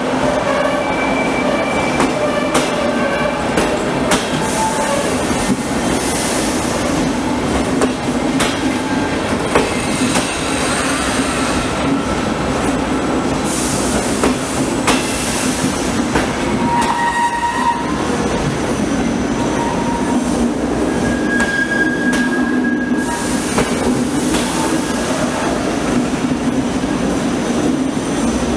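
Train rolling slowly over the station tracks, wheels clacking over rail joints and points, with short squeals of wheels on the rails now and then.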